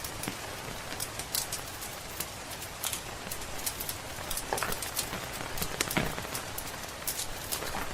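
Steady rain hiss mixed with irregular sharp pops and snaps of a crackling wood fire, a couple of louder pops partway through.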